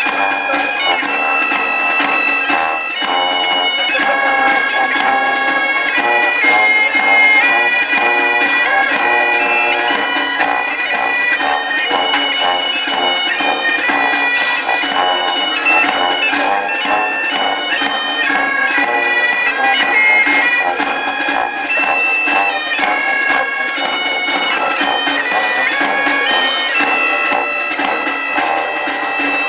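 Bagpipes playing a tune of held melody notes over a continuous steady drone.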